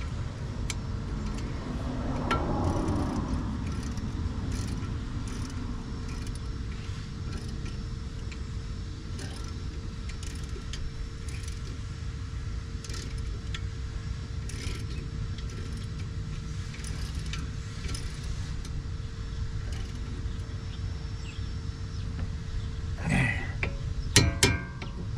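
Steady low mechanical hum with one constant tone, swelling briefly a few seconds in, then a few sharp metallic clinks near the end.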